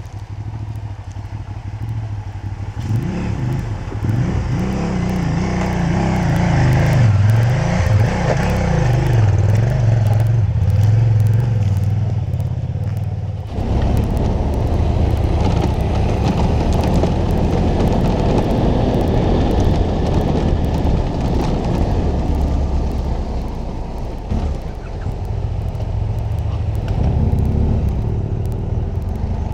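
Adventure motorcycle's twin-cylinder engine running on a dirt track, its pitch rising and falling with the throttle for the first dozen seconds. The sound then changes abruptly to a steadier, noisier engine drone mixed with wind rush.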